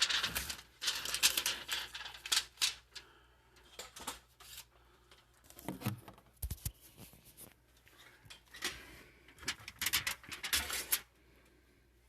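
Irregular handling noises: clicks, taps and rustling from hands and tools at work, in bursts, going quiet about a second before the end.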